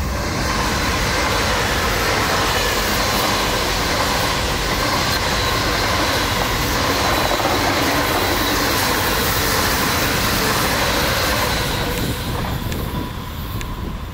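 Deutsche Bahn ICE T electric multiple unit (a leading class 415 coupled to a class 411) passing close at a leisurely speed on an uphill grade. It makes a loud, steady rolling noise of wheels on rail, with a faint steady whine above it, and fades in the last couple of seconds as the tail end moves away.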